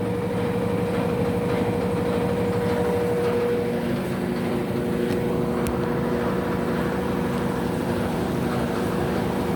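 Electrolux LF75 washing machine on its final spin, running with a steady motor hum; its tone changes about four seconds in.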